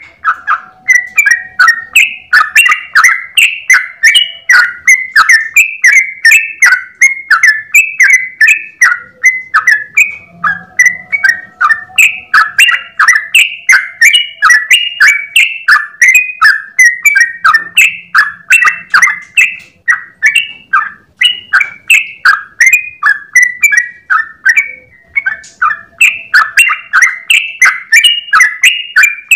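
Yellow-vented bulbul (trucukan) singing a long, unbroken run of rapid, loud bubbling notes, about three to four a second, in the continuous 'ropel' song that bird keepers use as a training recording for other bulbuls.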